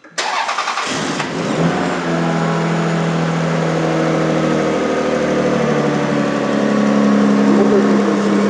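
Turbocharged Lexus RX300's 3.0-litre V6 started through its new custom straight-through exhaust: it cranks for about a second, catches, and settles into a steady high idle. The engine is still cold, which holds the revs up.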